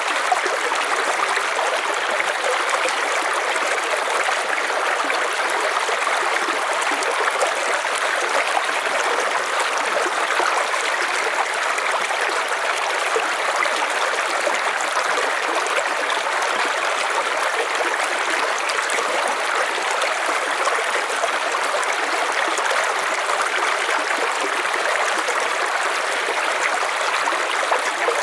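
River water running steadily over stones, an even, continuous rushing and gurgling with no break.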